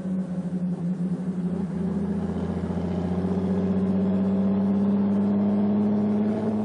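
Mercedes-Benz SSK's supercharged 7.1-litre straight-six engine running as the car drives. Its steady note grows louder over the first few seconds and then holds.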